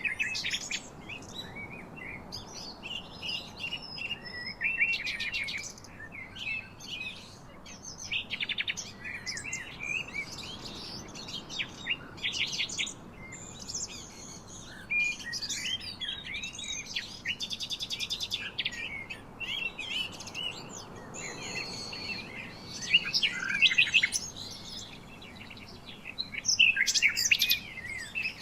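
Several birds chirping and singing at once, a dense mix of short chirps, whistles and fast trills with no pause.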